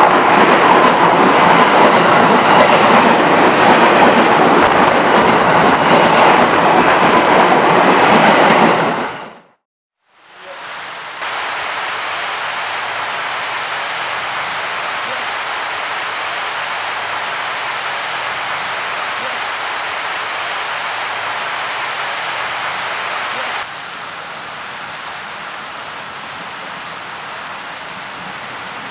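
KRL electric commuter train running through heavy rain, its wheel and motor noise blended with the rain. The sound fades out about nine seconds in, then a steadier, quieter rain-and-train hiss follows, dropping a step in level near the end.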